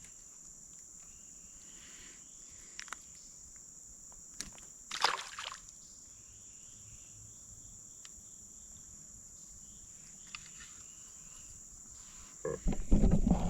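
Steady high-pitched drone of insects, with a few sharp knocks about five seconds in and a louder jumble of knocks and rustles near the end.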